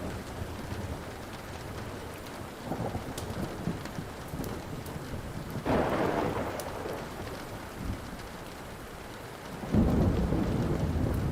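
Thunder rumbling over steady rain, with a louder roll about halfway through and a stronger one starting near the end, and now and then the pop of a wood fire crackling.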